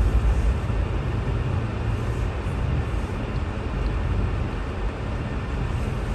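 Car driving on a snowy road: a steady low rumble of road and engine noise.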